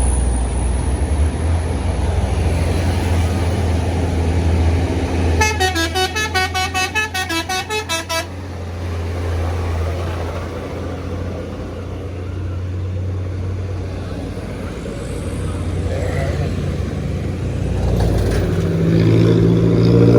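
A large diesel bus engine running with a steady low drone, and about five seconds in a vehicle horn sounds a rapid run of toots, about four a second, for roughly three seconds.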